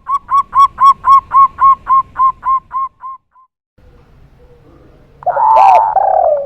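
Dove song. A fast run of about a dozen short hooked coo notes, about four a second, slows and fades over the first three seconds. Near the end comes a louder, lower coo.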